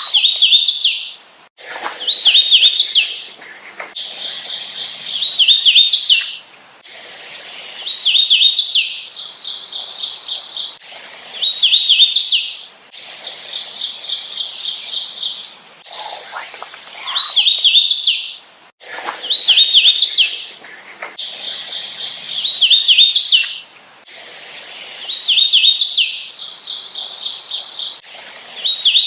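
Hooded warbler singing its song over and over: a quick run of clear, slurred whistled notes that ends in a short, higher flourish, repeated every few seconds.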